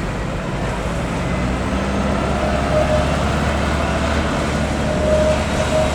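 Heritage tram running, a steady low rumble that builds slightly, with a thin whine coming and going from about two seconds in.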